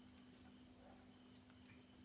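Near silence: a steady low hum of room tone with a few faint ticks.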